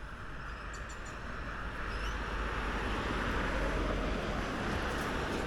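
A vehicle approaching and passing by, its tyre and engine noise swelling from about a second and a half in to a peak around the middle.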